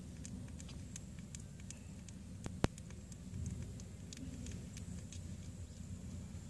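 Newborn kittens suckling at their mother, making faint wet clicking and smacking sounds over a low rumble, with one sharper click about two and a half seconds in.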